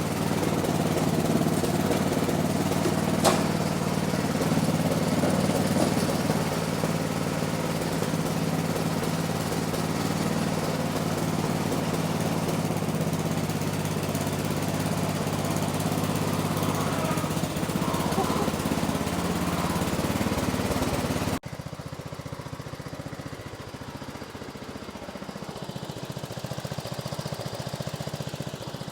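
A Massey Ferguson MF-12 garden tractor's 12 hp Tecumseh engine runs steadily on its newly fitted replacement cylinder head. There is a sharp click a few seconds in. About two-thirds of the way through the sound abruptly drops in level, and the engine carries on more quietly.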